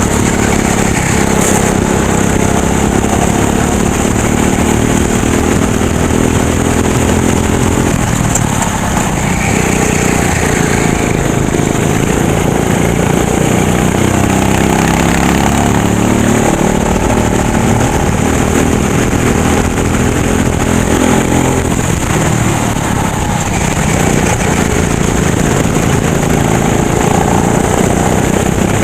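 Racing kart engine running hard, its pitch falling and climbing again as the throttle is lifted and reapplied, with dips about eight and twenty-one seconds in.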